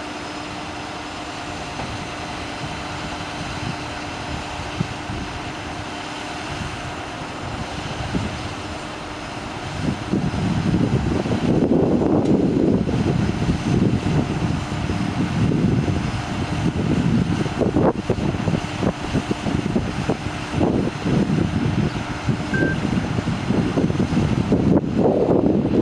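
Ford F750's 6.7-litre Power Stroke diesel running steadily with a held tone while it powers the aerial boom through the PTO. From about ten seconds in, a louder, uneven low rumble sits over it.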